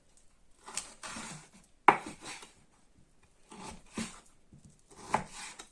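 A knife cutting beef fat on a cutting board: a few sharp knocks of the blade on the board, the loudest about two seconds in, with soft scraping strokes between them.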